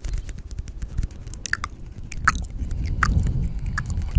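Close-miked ASMR mouth and chewing sounds: a dense run of small wet clicks and crunches, a few louder ones in the middle, over a low rumble.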